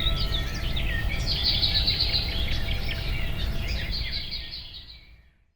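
Songbirds chirping, with a quick repeated trill about a second and a half in, over a steady low outdoor rumble. It all fades out near the end.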